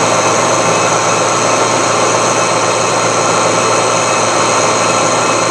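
Milling machine taking a cut in steel with a carbide end mill, a steady, even machining noise. The cutter is working through the steel easily under the machine's power.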